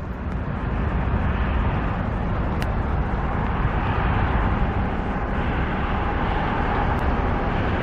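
Diesel engine of a concrete mixer truck running steadily, its drum not turning.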